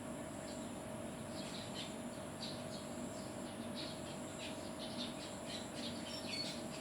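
Small birds chirping: many short, quick chirps at irregular intervals, over a steady low hum.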